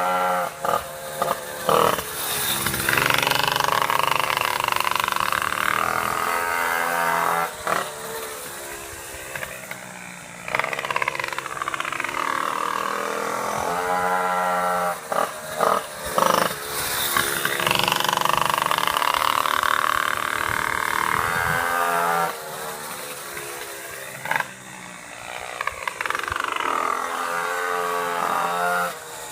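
Two-stroke pocket bike engine being run in on track, revving up and down in repeated rising whines as it accelerates and backs off. It falls quieter about ten seconds in and again near the end, then picks up again.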